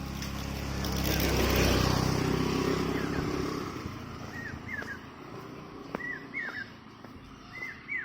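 A motor vehicle passes: its engine grows louder to a peak about two seconds in, then fades away. From about halfway through, a bird gives short chirps that drop in pitch, repeated several times.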